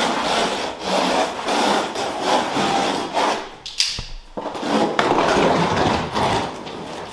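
Wall-to-wall carpet being pulled up off the floor: a series of rasping, tearing pulls about a second apart, with a sharp knock about four seconds in.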